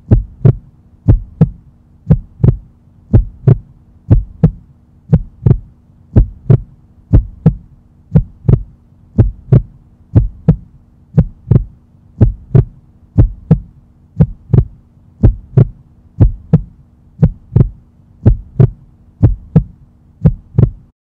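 Heartbeat sound effect: a steady rhythm of paired lub-dub thumps over a constant low hum, cutting off abruptly near the end.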